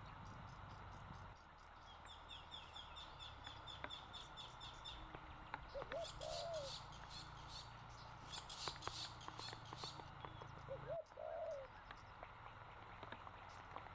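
Wild birds calling in forest: a fast high trill, bursts of high chirps, and twice a short low cooing note, over a faint steady hiss.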